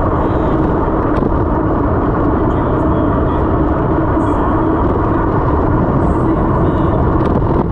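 Loud steady rushing and rumbling noise from a mountain bike ride: wind and tyre noise on the rider's camera microphone, with a faint steady hum underneath.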